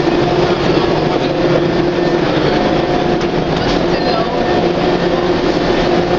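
Passenger train noise: a steady rumble with a constant hum and a few light clicks.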